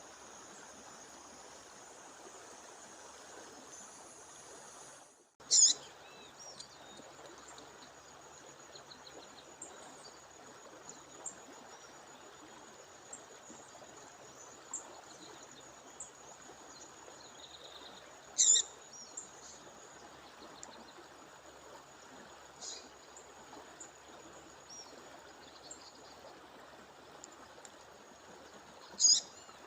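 A female bird calling: three short, loud, high calls spaced several seconds apart, with faint chirps in between, over the steady rush of a waterfall stream.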